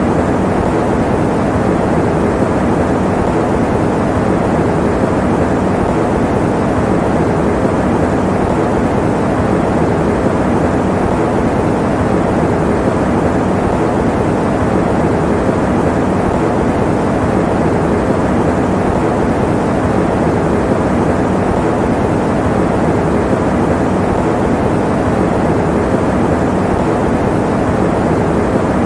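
Electric fan running with a steady, even whoosh of air, deep and low-pitched with little hiss.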